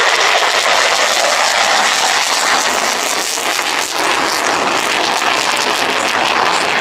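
Aircraft flying past overhead: a loud, steady rushing engine noise.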